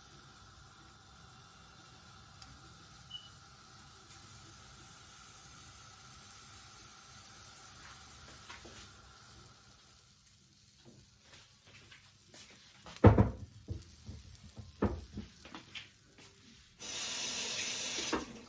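Kitchen sounds during pancake making: a faint steady hum, then a series of clinks and knocks from utensils and cookware, the loudest a sharp knock about two-thirds of the way in. Near the end comes a brief loud rush of hissing noise lasting about a second and a half.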